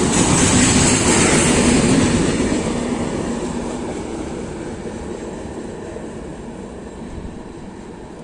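The rear coaches of a non-stop express passenger train rush past at speed, their wheels rumbling on the rails, loudest in the first couple of seconds. The noise then fades steadily as the train runs away down the line.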